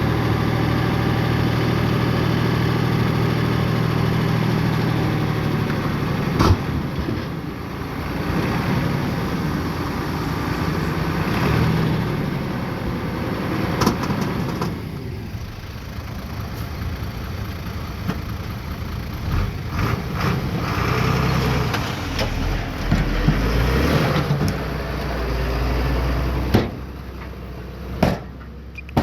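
Bulldozer's diesel engine running, steady at first and then rising and falling as it works, with several sharp knocks along the way.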